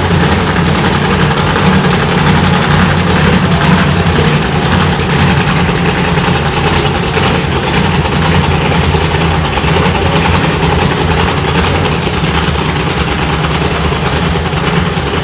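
Monster truck engine running steadily at low revs, with no hard revving.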